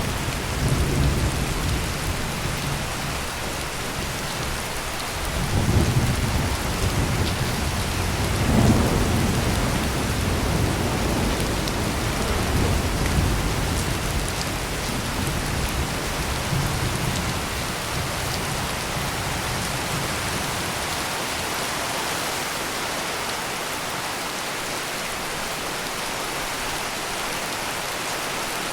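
Heavy, steady rain pouring, with rolling thunder rumbling twice in the first half, about six and nine seconds in, and then dying away, leaving the rain alone.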